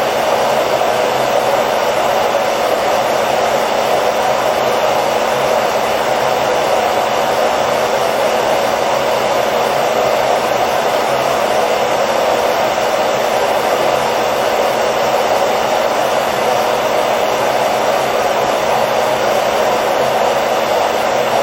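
Hair dryer running steadily: an even, unbroken rush of air, strongest in the middle range, with a faint steady motor hum beneath it.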